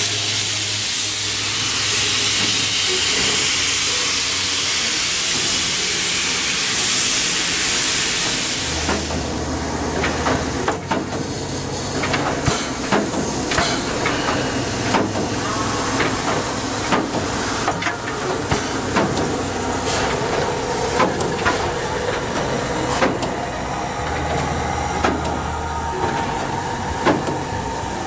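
Steam locomotive letting off steam with a loud hiss for about the first eight seconds. The hiss then drops away, and a run of sharp knocks and clanks follows.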